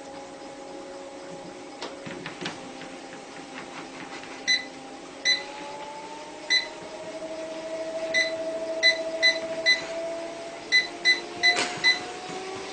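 About a dozen short electronic beeps, irregularly spaced and mostly in the second half, over a steady machine hum whose pitch drifts slowly.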